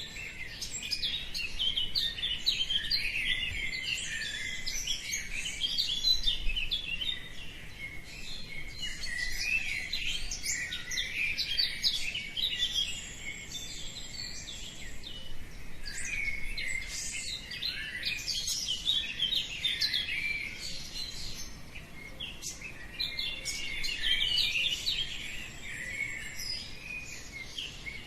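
Many birds chirping and singing at once in a dense, unbroken chorus of short overlapping calls and trills, typical of a dawn chorus.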